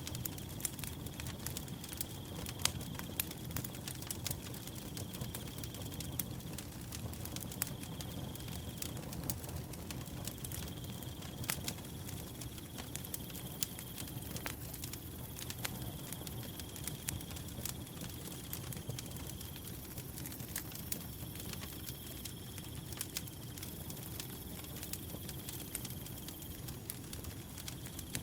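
A wood fire crackling, with frequent sharp pops over the low, steady rumble of the flames. A cricket trills alongside in bouts of a few seconds each, with short gaps between them.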